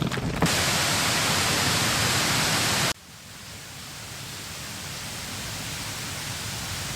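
A steady rushing hiss, loud for about two and a half seconds, then abruptly cut to a much quieter hiss that slowly swells.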